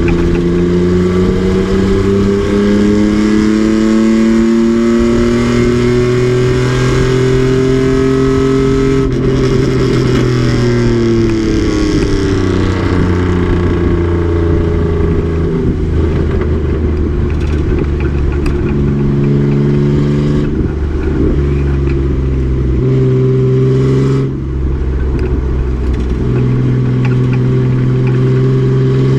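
Race truck's engine running hard on track, its pitch climbing steadily under acceleration for the first several seconds, then dropping and climbing again several times as the driver lifts and changes gear.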